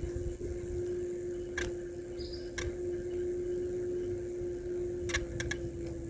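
Electric bike riding along, its motor giving a steady whine over a low rumble, with sharp clicks from the bike: one, then another a second later, then three in quick succession near the end.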